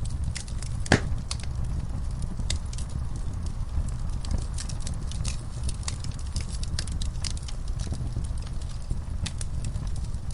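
Wood fire crackling in a fireplace, with irregular sharp pops over a low steady rumble. One loud pop comes about a second in.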